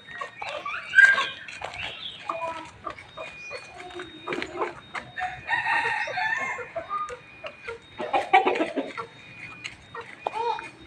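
Chickens, a rooster among them, clucking and squawking in repeated short calls, with a longer call about halfway through and a loud burst about a second in, amid scattered short knocks.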